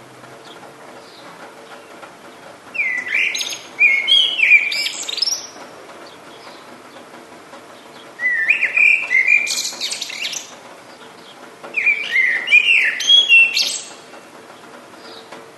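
A songbird singing three loud, complex song phrases of about two seconds each, a few seconds apart, with faint chirps of other birds between them.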